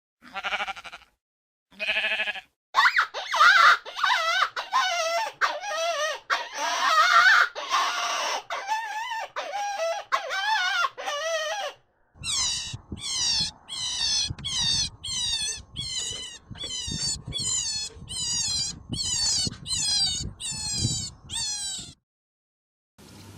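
Animal calls: two short cries, then a stretch of wavering cries, then a steady run of high calls, each falling sharply in pitch.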